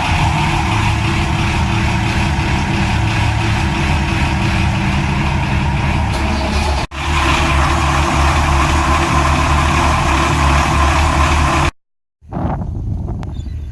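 A large boat's engine running steadily and loudly at a constant speed. The sound breaks off for an instant about seven seconds in and cuts out completely near the end.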